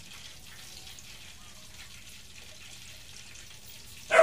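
Faint, steady sizzle of chicken cordon frying in hot oil in a covered pan. A dog starts barking just before the end, the loudest sound here.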